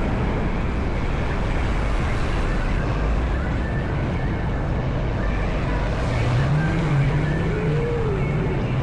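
Honda CB190R's single-cylinder engine running while riding, under heavy wind rush on the microphone. The engine note rises and then eases off about two-thirds of the way through.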